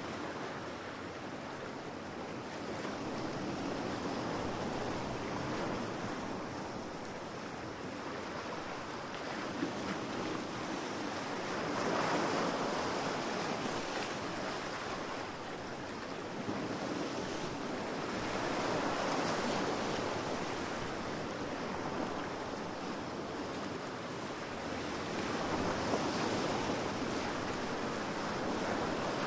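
Ocean waves washing onto a beach, a steady surf that swells and eases about every seven seconds.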